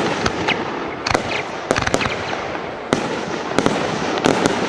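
Fireworks going off: a string of sharp, irregular bangs over a steady crackling.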